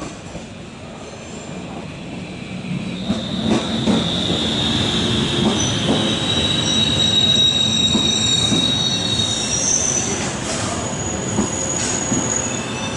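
BLS electric multiple unit running into the station, growing louder over the first few seconds. A high steady squeal sets in about three seconds in as it slows, and sharp wheel clicks over the rail joints recur.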